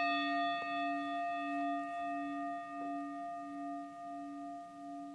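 A singing bowl, struck once, rings on with a low wavering hum and several higher overtones, slowly fading. It is the closing bell of the meditation.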